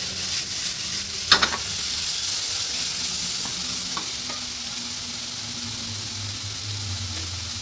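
Sliced bitter gourd, carrot and fish cake sizzling steadily in a hot non-stick frying pan, with a few scraping strokes as the pan is tossed and stirred. A sharp knock comes about a second and a half in, then light clicks of a wooden spatula over the continuing sizzle.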